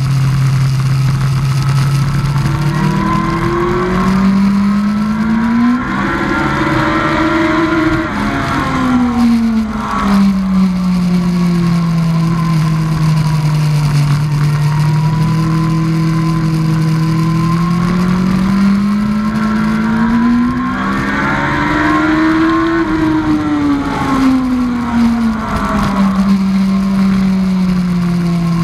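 2003 Yamaha R1's inline-four engine under way on track, with wind noise at the helmet. The engine climbs in pitch over a few seconds and falls back, twice, between steadier stretches.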